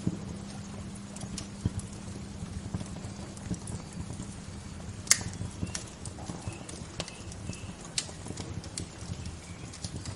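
Wood fire crackling, with irregular sharp pops and snaps over a steady low rush; the loudest pop comes about five seconds in. A few faint short bird chirps sound in the second half.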